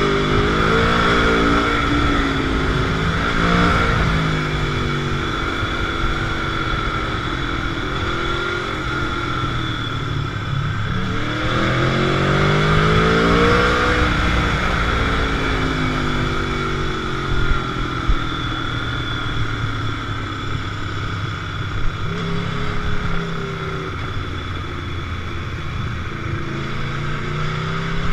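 Motorcycle engine under way at speed, its revs rising and dropping repeatedly. About eleven seconds in there is a long climb in revs that eases off a few seconds later.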